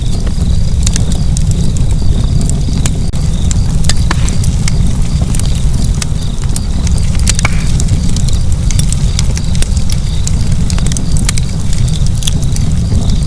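Wood fire burning, with a steady low rumble of the flames and frequent sharp crackles and pops scattered throughout.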